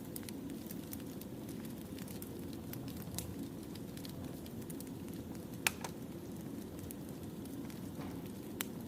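Wood fire burning: a steady low rumble with scattered crackles and pops of burning firewood, the sharpest pop a little before six seconds in.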